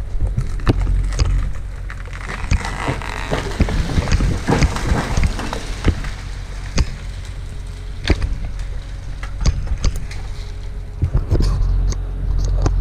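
Engine of a log skidder running steadily, with repeated knocks and clanks over it.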